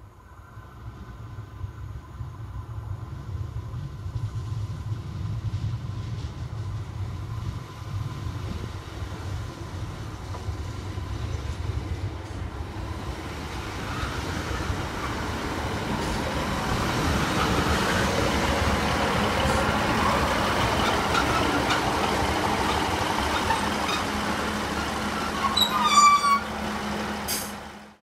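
Class 153 single-car diesel railcar approaching and running into the platform. A low diesel engine rumble comes first, then wheel-on-rail running noise builds through the second half as it draws close. A brief squeal near the end is the loudest moment.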